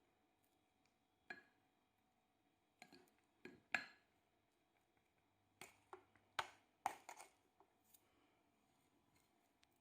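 Faint, scattered clinks and taps of kitchenware, about a dozen short knocks in small clusters with near silence between them.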